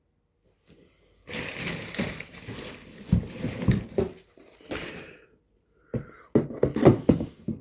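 Handling noise: rustling and crinkling with sharp knocks as the new motorcycle part is picked up and turned over. It starts about a second in, pauses briefly, then resumes with sharper knocks.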